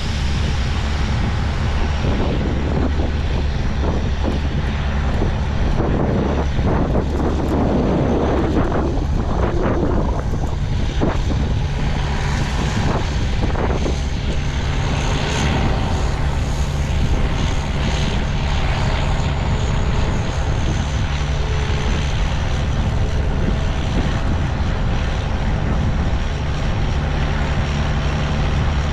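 Heavy diesel harvest machinery running steadily: a deep, even engine drone with a constant low hum.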